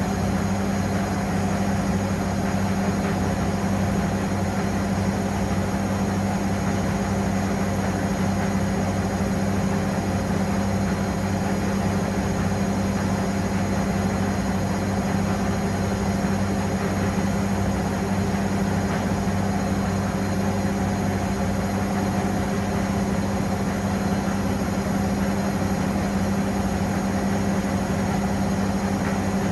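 Pasvens washing machine running a cotton 40 °C cycle, its motor giving a steady, unchanging hum with no breaks.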